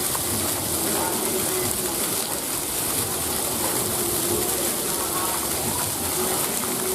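Steady rush of running water with faint voices underneath.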